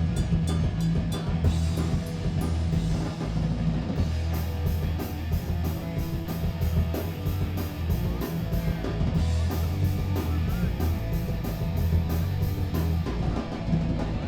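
Live punk rock band playing loud: distorted electric guitar and bass over a driving drum kit, with steady, evenly spaced cymbal hits through the middle.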